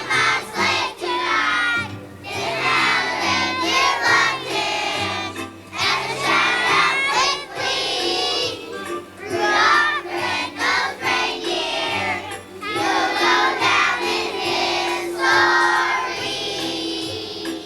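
A kindergarten children's choir singing a song together, with musical accompaniment under the voices.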